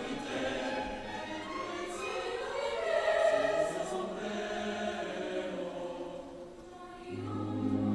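Choir singing; the phrase dies away about six seconds in, and a new low sustained note comes in near the end.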